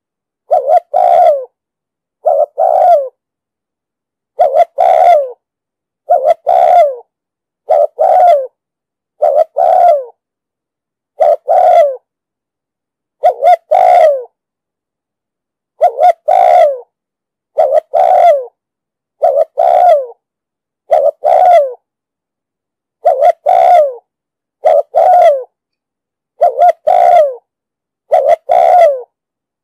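Spotted dove cooing over and over in short phrases of two or three quick notes, roughly one phrase every one and a half to two seconds. This is the insistent 'thúc gù' coo that Vietnamese bird keepers play as a lure call to draw in wild doves.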